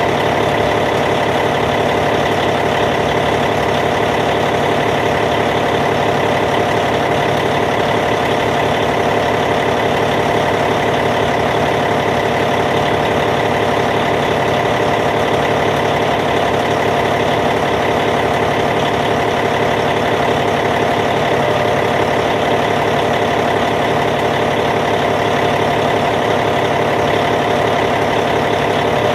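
Caterpillar C15 inline-six diesel engine in a D8T bulldozer, idling steadily.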